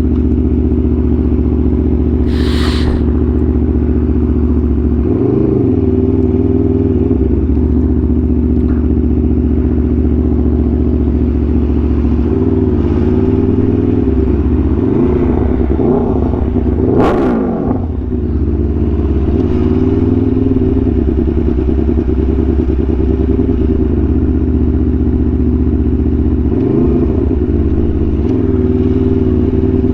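Aprilia Tuono V4 1100's V4 engine through an SC-Project exhaust, running at steady revs while riding, with a few brief dips and rises in engine pitch. A single sharp crack sounds about 17 seconds in.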